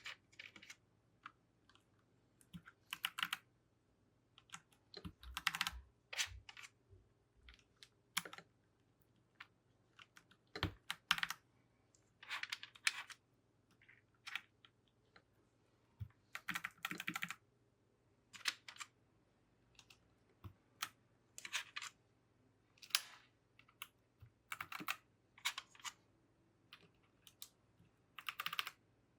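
Clicks and clacks from a mechanical keyboard in irregular clusters every second or two, as keycaps are pushed down onto the switches and the keys pressed.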